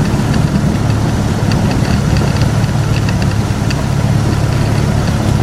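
Park train's engine running steadily with a low rumble, heard from aboard the moving train.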